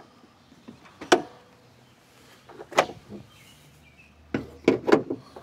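Sharp plastic and metal clacks from latches and parts being worked under the hood of a Ford Police Interceptor Utility. There is one about a second in, another near the middle, and a quick run of three near the end.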